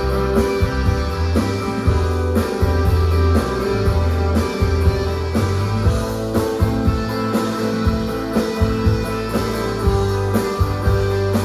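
Rock band playing live: electric guitars, bass and drums, with a steady drum beat.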